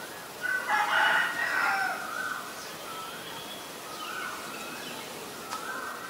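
A loud, rough bird call lasting nearly two seconds, starting about half a second in, over fainter wavering whistled bird notes.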